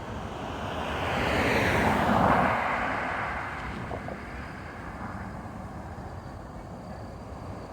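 A road vehicle driving past, its tyre and engine noise swelling to a peak about two seconds in, dropping in pitch as it goes by, then fading to a faint steady background hum.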